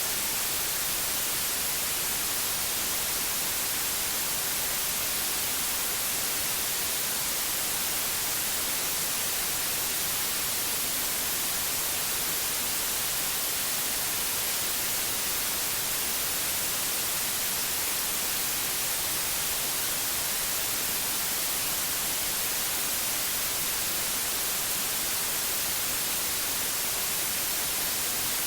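Steady, unbroken white noise: an even hiss with no tones or changes, brightest in the treble.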